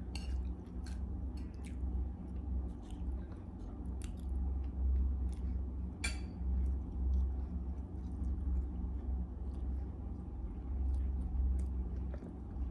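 A person chewing and biting crunchy food close to a clip-on microphone: scattered crisp crunches and mouth clicks, with one louder crunch about six seconds in.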